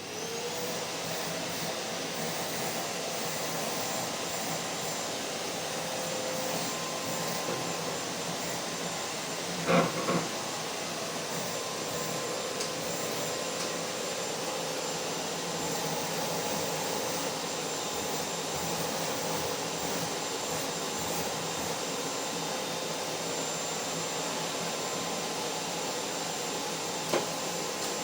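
Vacuum cleaner motor spinning up to speed and then running steadily: a dense rushing hiss with a whine held on several steady pitches. A sharp double knock comes about ten seconds in, and a smaller click near the end.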